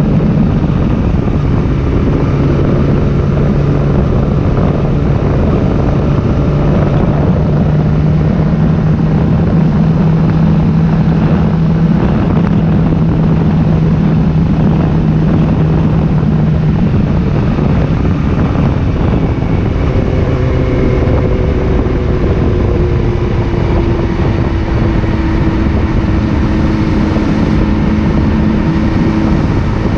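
Motorcycle engine running steadily under way, with heavy wind rumble on the microphone. About two-thirds of the way through, the engine note slowly drops as the bike eases off.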